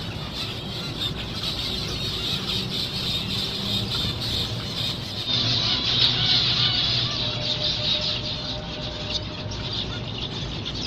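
A colony of zebra finches calling all at once: a dense, continuous chatter of many short, high calls, a little louder from about halfway through.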